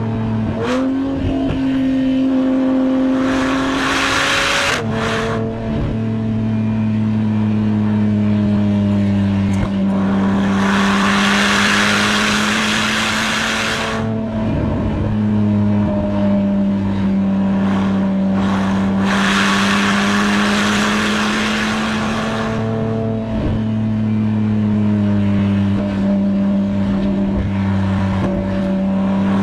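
Porsche 987 Boxster Spyder's 3.4-litre flat-six heard from inside the cabin, pulling at fairly steady revs, with the engine note stepping up and down several times through gear changes and throttle. Loud stretches of hiss come and go over it.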